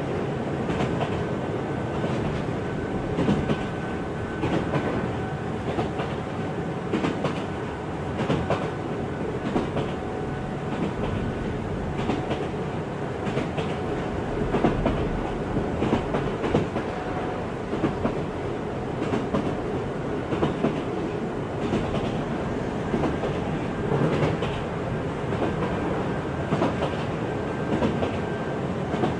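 A train running along the rails: a steady rumble with irregular clickety-clack of the wheels over rail joints, and a faint high tone that comes and goes.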